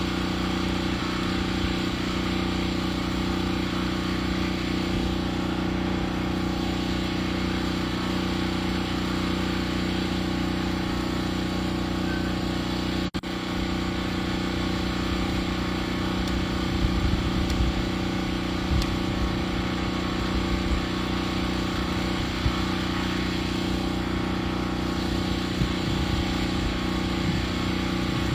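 Engine of a lumber-milling saw running steadily, with a momentary drop in sound about halfway through.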